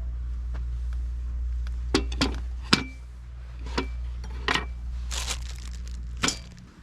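Light clinks of cookware and tableware being handled, about seven in all, some leaving a short ring, over a steady low hum that cuts off suddenly near the end.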